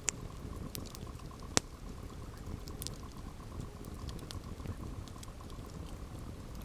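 Campfire burning with scattered small crackles over a low steady rumble. Two sharp pops stand out, one right at the start and a louder one about a second and a half in.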